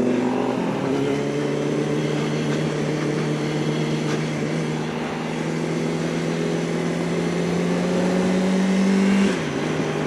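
Yamaha R1 motorcycle engine running on the move, its pitch dipping about half a second in, then holding and slowly rising before dropping suddenly near the end, with wind noise over the microphone.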